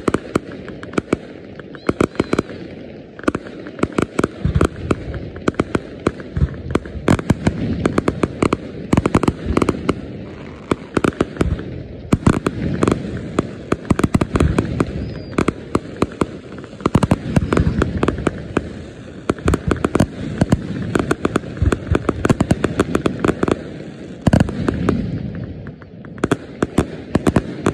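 Aerial fireworks display: a rapid, irregular series of sharp bangs from shells bursting overhead, many close together, dying away near the end.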